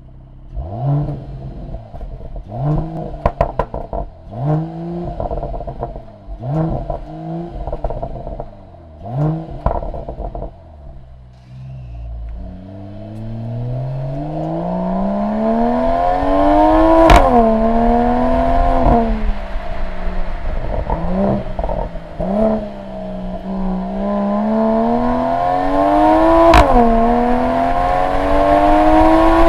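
Mercedes-AMG E 53's turbocharged 3.0-litre inline-six, heard at the tailpipe through the AMG Performance Exhaust. First it is blipped in about six short revs, with crackling pops off the throttle. Then it pulls hard with the pitch climbing, broken by two quick upshifts about nine seconds apart, each marked by a sharp crack and a sudden drop in revs.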